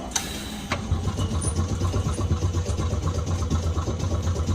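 A short burst of air hiss from the stopped Nagasaki tram 370-series car, then the car's air compressor starts about a second in and runs with a steady low chugging drone.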